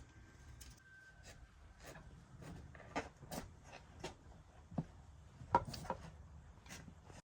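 Light clicks and taps of small objects being handled, about a dozen at irregular intervals, with a faint steady background.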